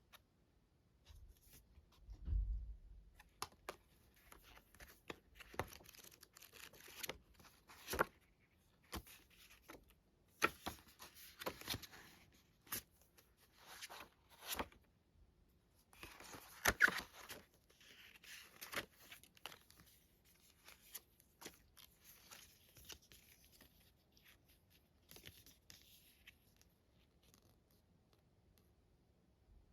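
Packaging being torn open and crinkled by hand, in irregular rips and rustles with sharp crackles, after a low bump about two seconds in.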